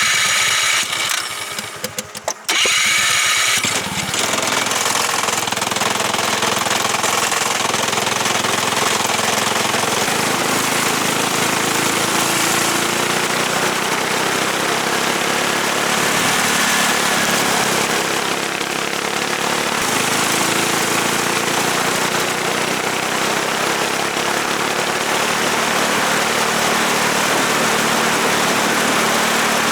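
A racing kart's Subaru KX21 single-cylinder four-stroke engine running on track, its pitch rising and falling with the throttle under a steady loud rushing noise. The sound is broken up for the first couple of seconds.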